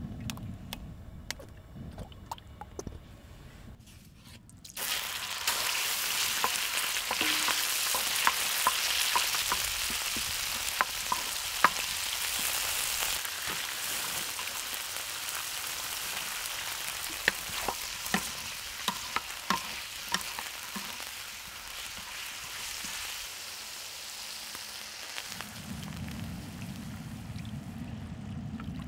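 Diced pork and sliced onion frying in oil on a hot cast-iron cauldron-lid griddle: a dense sizzle sets in suddenly about five seconds in, with the clicks and scrapes of a wooden spatula stirring. Near the end the sizzle dies down as water is poured onto the pan with a low rushing sound.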